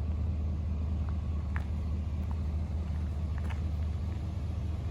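Pickup truck engine idling with a steady low hum, with a few faint clicks.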